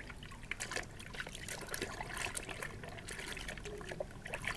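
Water trickling faintly, with many small irregular clicks and ticks, as muddy toy vehicles are washed.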